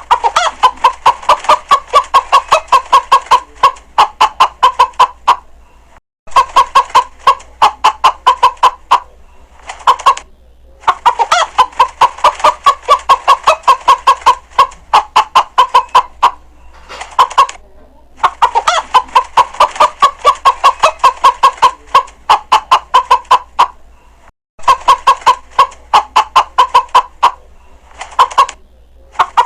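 Chickens clucking in fast runs of sharp, rapid clucks, broken by short pauses and abrupt cuts.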